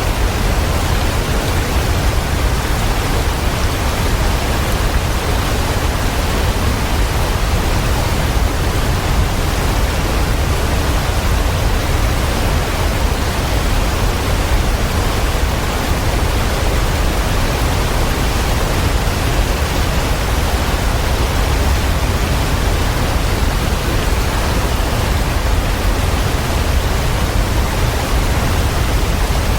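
Waterfall: a steady, unbroken rush of falling water, heaviest in a deep low rumble.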